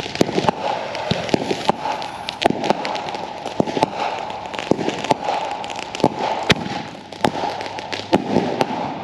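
Fireworks and firecrackers going off: an irregular string of bangs and crackling pops, with one sharper, louder bang about six and a half seconds in.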